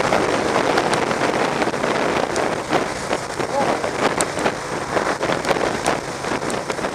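Wind rushing over the microphone of a motorcycle on the move, with vehicle and road noise under it and many short, sharp ticks scattered through it.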